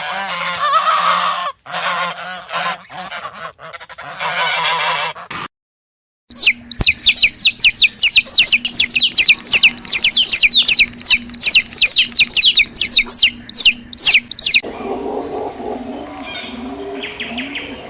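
Farm fowl calling: a few seconds of harsh honking calls, then after a short gap a long run of rapid high chirps, several a second, each falling in pitch. Lower, quieter calls follow near the end.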